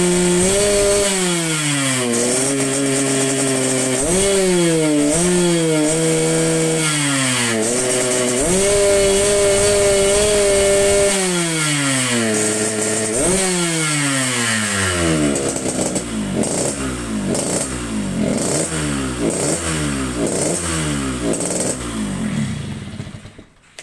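Yamaha RX-King two-stroke single-cylinder engine being revved: held at high revs, dropped back, blipped several times, held high again, then falling to low revs with an uneven rising-and-falling beat about twice a second before cutting off abruptly near the end. The carburettor is jetted rich (the 'wet' or 'snoring' setting), which the owner says makes it stutter and waver at 7,000–8,000 rpm.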